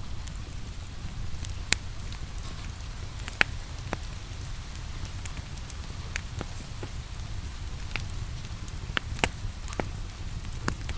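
Steady rain over a wood fire crackling, with sharp irregular pops from the burning logs scattered through it.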